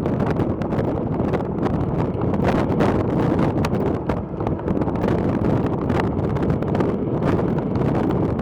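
Wind buffeting the microphone: a steady low rumble with scattered light ticks.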